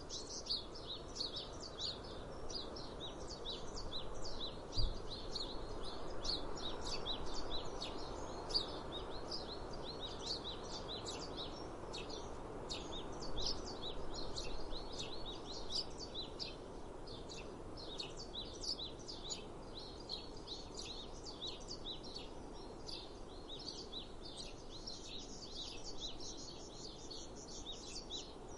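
Many small birds chirping in quick, overlapping calls over a steady low rushing background, with a single low knock about five seconds in.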